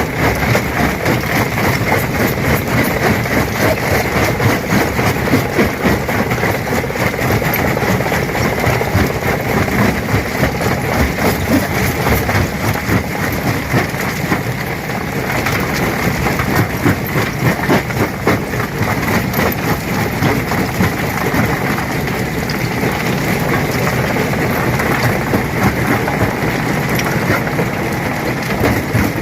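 Stone crusher running under load: a steady heavy machine noise packed with a continuous clatter of rock being broken, with a faint steady whine running through it.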